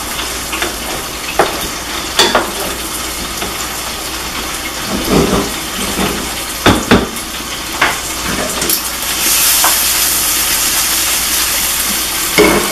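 Okra and sausage frying in pans on a gas stove, a steady sizzle, with a wooden spatula scraping and knocking against the pans now and then. The sizzle grows louder and brighter about nine seconds in.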